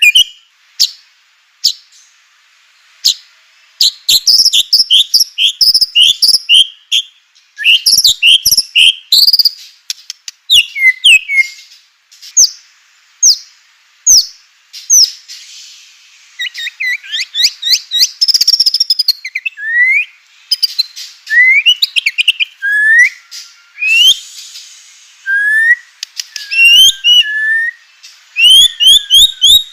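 White-rumped shama singing a varied, loud song: sharp clicks, quick runs of repeated notes and rising whistled slurs in bursts with short pauses between them.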